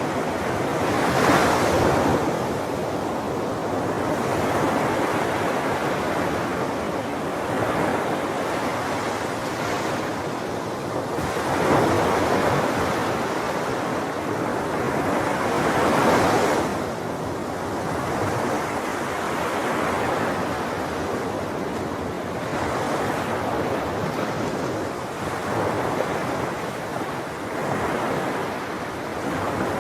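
Ocean waves breaking on a shore: a continuous wash of surf, with larger waves swelling and breaking about a second in, near 12 s and near 16 s, and smaller ones between.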